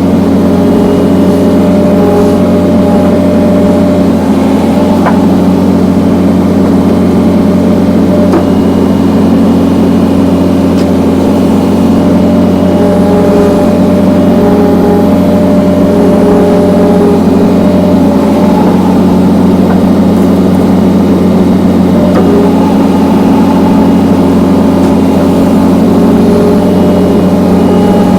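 John Deere skid steer engine running steadily while it powers a hydraulic log splitter. A higher tone comes in and drops out every few seconds over the steady hum.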